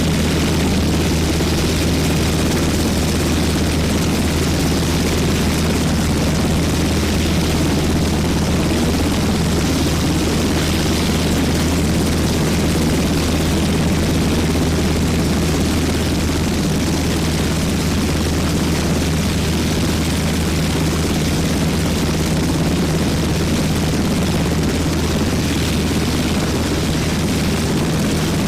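Military helicopter running steadily close by: a constant low rotor drone with a rushing engine noise over it.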